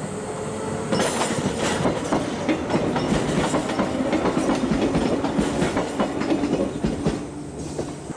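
Tram running on rails, its wheels clattering over rail joints with a steady motor hum. It grows louder about a second in and eases off near the end.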